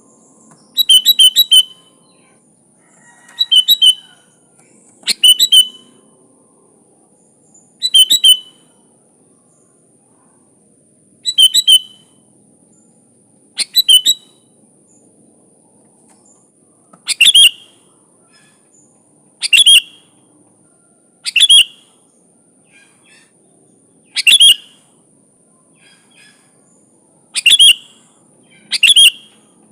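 Sooty-headed bulbul calling in short, bubbly phrases, about a dozen of them, one every two to three seconds. A faint steady high whine runs underneath.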